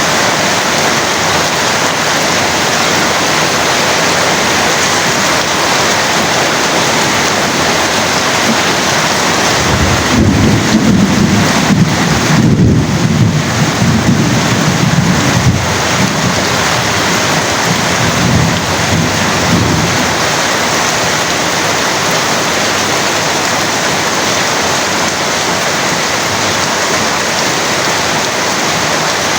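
Heavy rain pouring steadily. Thunder rolls low underneath from about a third of the way in, for roughly ten seconds, loudest at first and then fading.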